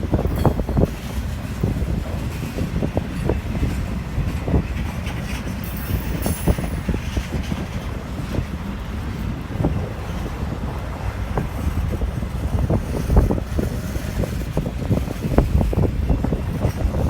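Freight train rolling past with a steady low rumble and irregular knocks and clanks from its cars, with wind buffeting the microphone.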